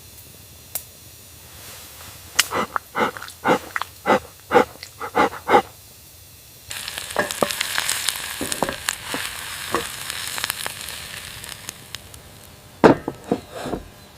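Cooking sounds: a run of about a dozen quick clinks, like a utensil against a pot or mug, then a steady sizzling hiss starts abruptly with scattered pops and clicks, and a few louder knocks near the end.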